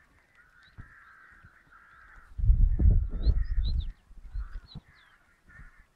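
Birds calling, with a harsh cawing band and a few short high chirps in the middle. A loud low rumble on the microphone, a little over two seconds in and lasting about a second and a half, is the loudest sound.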